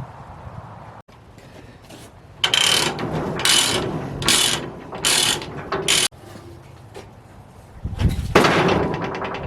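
A metal ratchet mechanism being worked in five strokes about a second apart, each with a metallic ring, followed near the end by a louder rush of noise.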